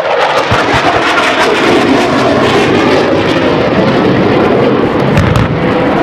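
F/A-18 Hornet's twin turbofan engines in a loud, steady jet roar as the fighter makes a low pass over the target area, with one deep thump about five seconds in.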